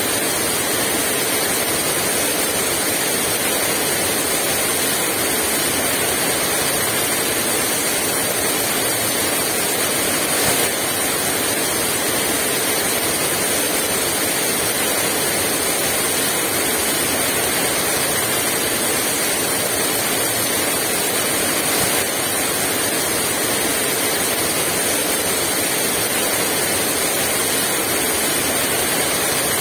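Heavy rain pouring down steadily, an even, unbroken hiss of rainfall with no wind gusts.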